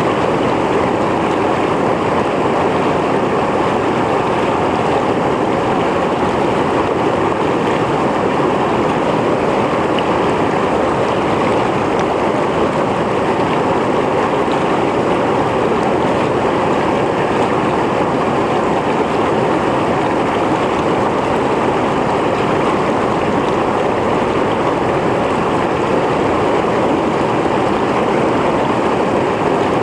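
Mountain stream rushing over rocks: a steady, even wash of flowing water.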